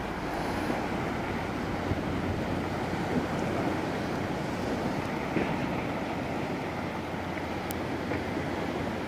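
Sea waves washing around a kayak and wind buffeting a phone's microphone, a steady noisy rush.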